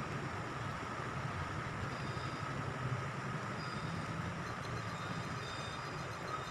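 Diesel-hauled passenger train running past at a steady level, a low locomotive engine rumble under the noise of rolling wheels on the rails, with faint high-pitched squeaks from the wheels.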